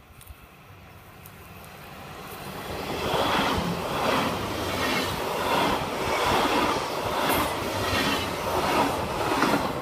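Red electric multiple-unit passenger train passing close by on the rails. The rumble builds for about three seconds as it nears, then holds loud with a regular beat of wheels on the rails about every 0.8 seconds as the cars go past.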